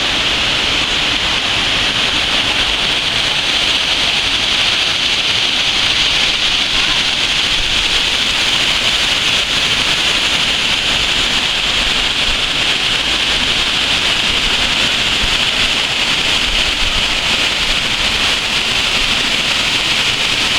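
Waterfall: falling water rushing in one steady, even sound.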